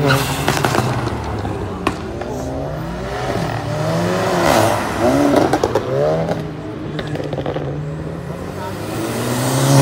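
Hatchback cars driving past one after another, their engines revving with rising and falling pitch. Each is loudest as it passes: near the start, about halfway through, and at the end. There are a few sharp cracks in the first two seconds.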